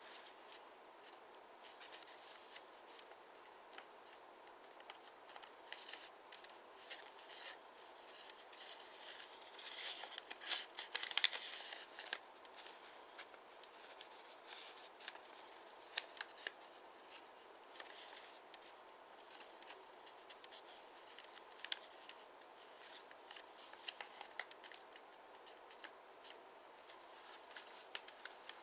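A sheet of origami paper being handled and folded by hand: faint scattered rustles and crease clicks, with a louder spell of paper rustling about ten seconds in, over a steady faint room hiss.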